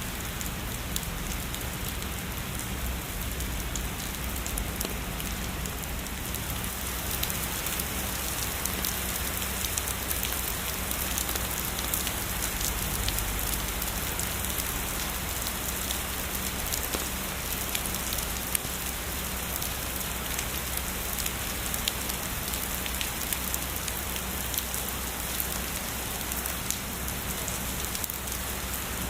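Heavy rain falling steadily on a surface, with many sharp ticks of single drops through the even hiss and a low steady rumble underneath.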